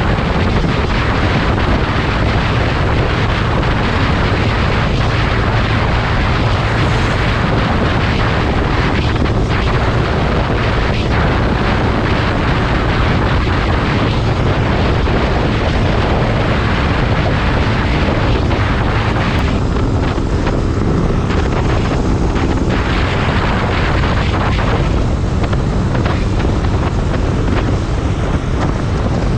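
Motorcycle running steadily at speed, with heavy wind rushing over the microphone.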